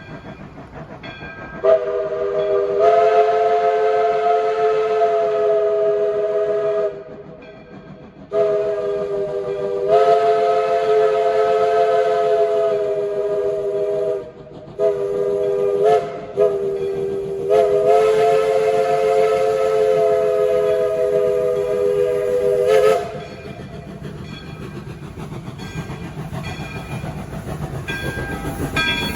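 Steam locomotive whistle sounding a chord of several notes in the grade-crossing pattern: two long blasts, a short one, then a final long blast. After the whistle stops, the working locomotive's rumble grows louder as it comes on.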